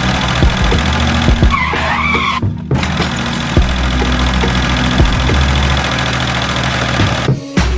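Motor of a DIY mini tractor running steadily with a high whine, with a brief squeal that wavers in pitch about one and a half seconds in. The sound cuts off abruptly twice and resumes.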